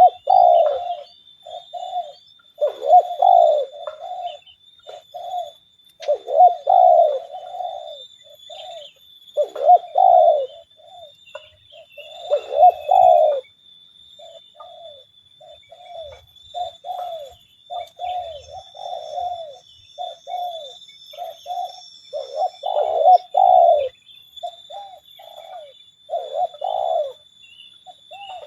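Spotted doves cooing over and over: louder coo phrases every few seconds, with softer cooing between them. A steady thin high-pitched tone runs underneath.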